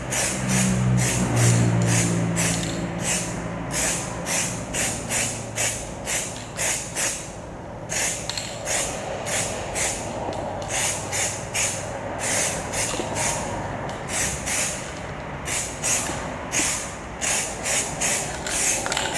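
2K aerosol spray can hissing in short repeated bursts, about two a second, laying light dusting coats of paint. A low hum sounds under it for the first few seconds and then fades.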